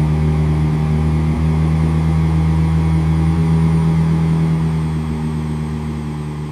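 Semi-truck's diesel engine running steadily at one constant pitch, fading out near the end.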